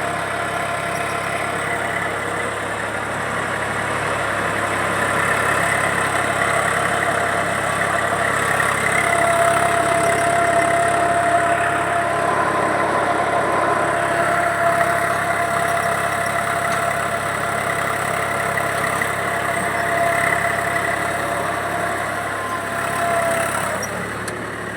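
Tractor engine running steadily, a continuous drone with several held tones that eases off a little near the end.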